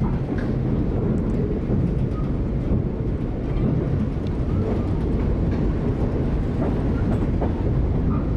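Skunk Train passenger cars rolling along the track in reverse: a steady low rumble of wheels on rails, with a few faint clicks.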